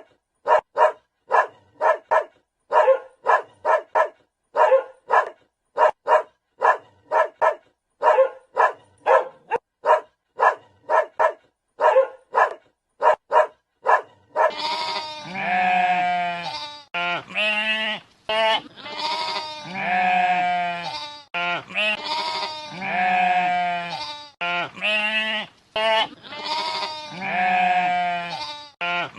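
A dog barking over and over in short, quick barks, about two a second. About halfway through it changes to long, wavering bleats, repeated one after another.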